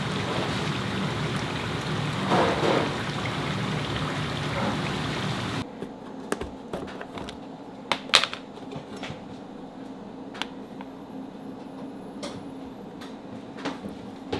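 Kitchen working sounds: a steady noisy rush for about five seconds, then it drops away suddenly, leaving scattered clinks and knocks, with a louder double knock about eight seconds in.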